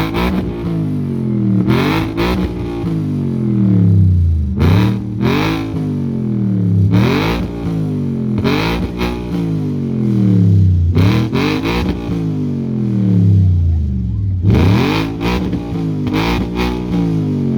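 Car engine revved over and over, about eight times: each blip rises sharply and then falls slowly back toward idle.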